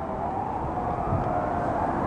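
Fire engine siren wailing, its pitch sliding slowly down and starting to climb again at the very end, over the truck's low engine rumble.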